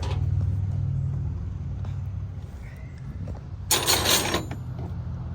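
A steady low engine hum runs throughout. About four seconds in, a loud, harsh, noisy burst lasts about half a second, like metal scraping or a hiss.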